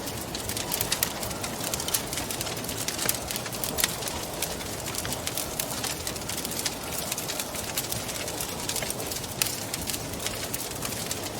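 Wood fire crackling, with many sharp pops and snaps at uneven intervals, over a steady rushing wind.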